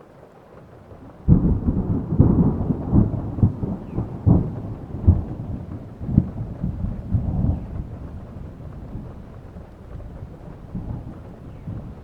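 Thunderclap over steady rain: a sudden crack about a second in, then a crackling, rumbling roll of thunder that peaks over the next several seconds and slowly fades back into the rain.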